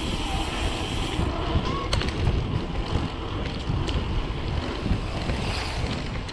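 Wind buffeting the camera microphone during a mountain-bike ride, a steady low rumble, with a couple of sharp clicks from the bike.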